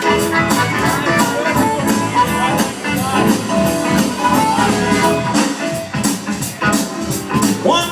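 Live blues band playing an instrumental passage with a steady beat and no singing.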